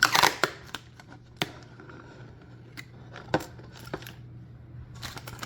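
Clear protective plastic film being peeled off an MDF sublimation board: light crinkling and scattered sharp clicks and taps as it is handled, with a burst right at the start. A steady low hum runs underneath.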